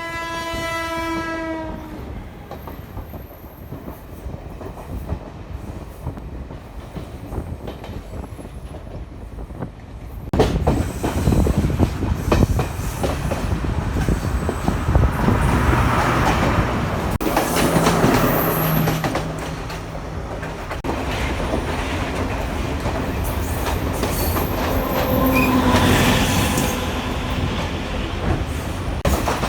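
A train horn blows once for about two seconds, its pitch sinking slightly. A low rumble follows. About a third of the way through it gives way to a louder train running past, with rumble and clattering wheels on the rails.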